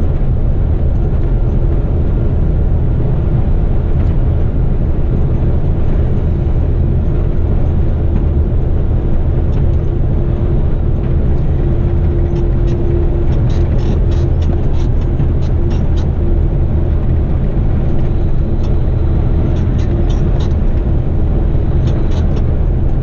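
Heavy rigid 8-wheeler twin-steer truck cruising on the road: a steady diesel engine drone with road noise, heard from inside the cab.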